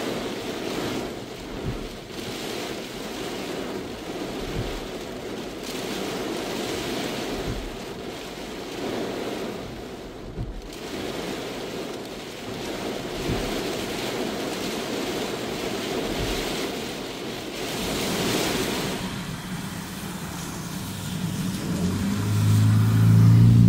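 Heavy rain falling steadily, a dense even hiss with occasional soft low thumps. Near the end a loud low hum swells up and becomes the loudest sound.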